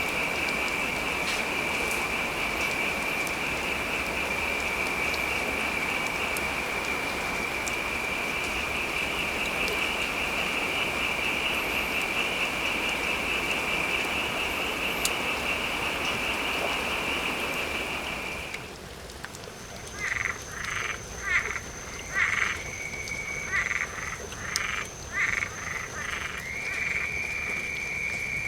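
Steady rain hiss under a continuous high-pitched trilling chorus of frogs. About two-thirds of the way in the rain cuts out suddenly, leaving the frogs calling in short repeated bursts over a faint, thin, high steady tone.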